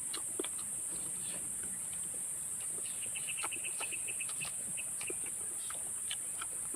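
Steady high-pitched drone of insects with a bird chirping in a rapid run of short notes in the middle, and a few faint clicks.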